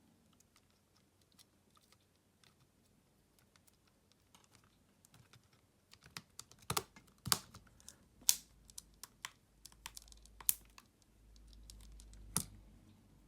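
Small clicks and taps of repair tools against the parts of a Xiaomi Redmi Note 11 phone being disassembled: faint and scattered at first, then sharper and louder from about halfway.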